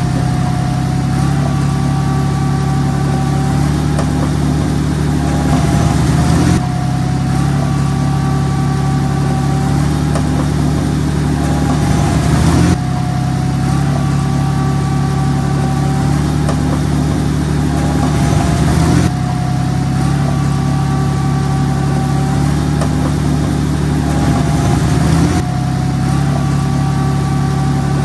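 A heavy construction machine's diesel engine running steadily. Its sound shifts in a cycle that repeats about every six seconds, with a thin whine over the engine note.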